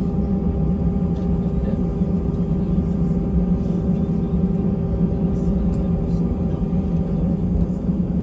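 Steady cabin drone inside an Airbus A320 airliner, its engines and air systems humming at an even pitch with a low rumble underneath, no rise or change.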